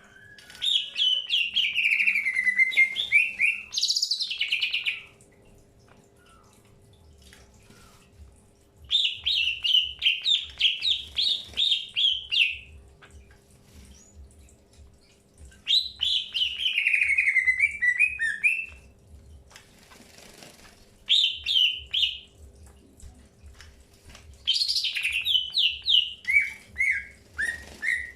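Green leafbird (cucak hijau) singing in five loud phrases of quick, repeated chattering notes, several sliding downward in pitch, with short pauses between them.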